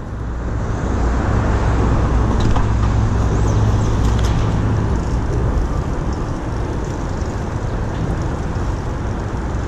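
Steady low rumble of city street traffic with wind buffeting the microphone of a camera worn while riding a bike.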